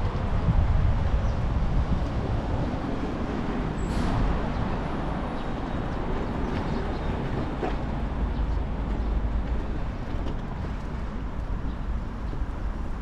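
Steady rush of wind on the microphone of a moving bicycle, with rolling tyre noise, a rumble that rises and falls slightly.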